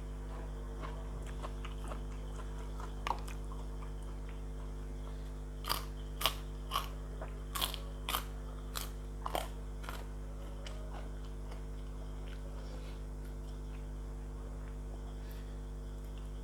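Close-up mouth sounds of someone biting and chewing crisp fried food. A run of about eight sharp crunches comes between roughly six and ten seconds in, with fainter chewing around it, over a steady low hum.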